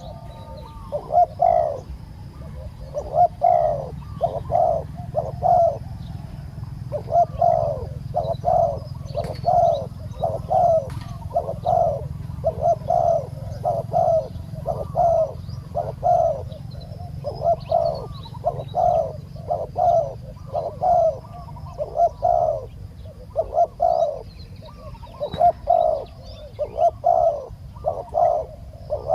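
Spotted doves cooing: short, repeated phrases of several low coo notes, one after another, with barely a pause between phrases.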